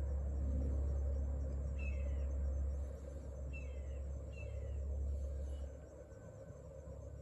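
A bird chirping outdoors, several short falling chirps, over a low steady hum that fades about three-quarters of the way through.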